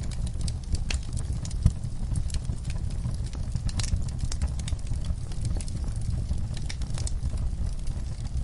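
Wood fire in a fireplace crackling, with frequent sharp pops over a steady low rumble; one louder pop comes a little under two seconds in.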